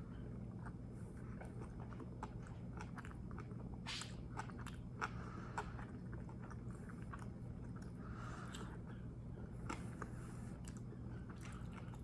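Close-miked mouth sounds of a person chewing a mouthful of a meat-filled tortilla wrap: soft, irregular wet clicks and smacks over a faint steady low hum.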